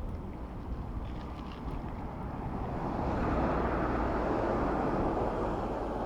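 Wind rushing over a riding cyclist's camera microphone, with road noise, swelling louder about halfway through.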